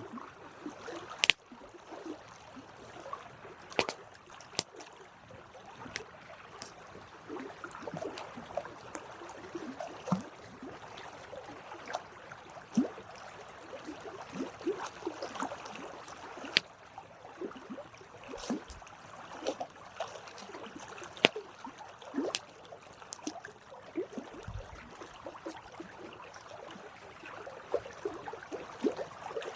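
Wood campfire crackling, with irregular sharp pops and snaps over a steady hiss and fizz from the burning wood.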